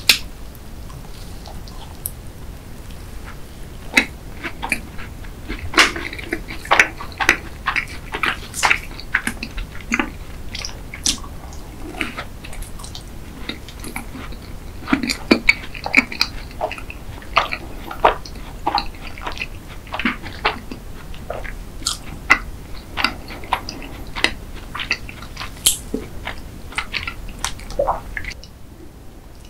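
Close-miked chewing of a lemon macaron: a bite into the crisp shell at the start, then many irregular small crunches and wet mouth clicks as it is chewed. The chewing stops near the end.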